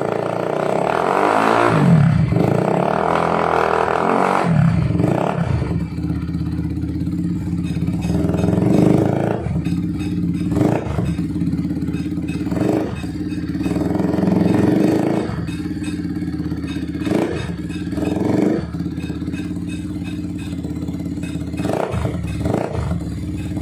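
Benelli TRK 251's single-cylinder engine running through a Japstyle full-system aftermarket exhaust, idling and revved in one longer rev about a second in, then in a series of short throttle blips.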